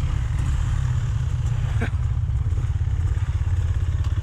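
Rieju Marathon Pro 125 dirt bike's 125cc single-cylinder engine running steadily under way, with a single knock about two seconds in; near the end the exhaust settles into an even, fast pulsing.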